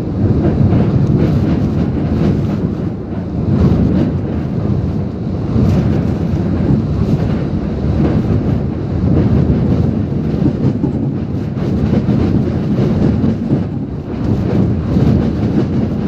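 Typhoon-force wind and heavy rain blowing hard and steadily, swelling and easing in gusts every second or two.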